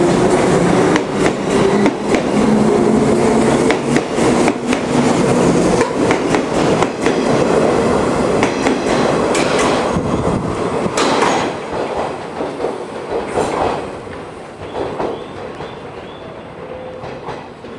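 JR 485-series electric express train running, heard from inside a car: wheels clacking over rail joints and points, with a low hum in the first few seconds. The noise grows quieter over the last several seconds, with a faint high squeal near the end.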